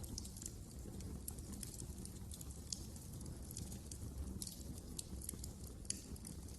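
Wood fire crackling in a fireplace: irregular sharp crackles and pops over a low steady rumble of the burning fire, with a couple of louder pops near the middle and near the end.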